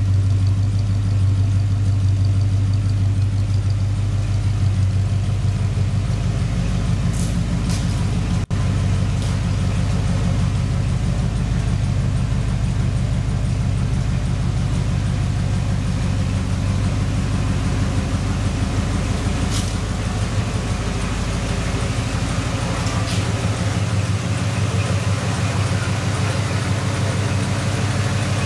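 1968 Mercury Montego MX's V8 engine idling steadily, a continuous low exhaust rumble with an even pulse.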